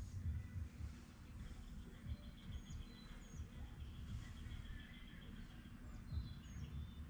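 Faint outdoor ambience: birds chirping, with a high trill lasting a few seconds, over a steady low rumble.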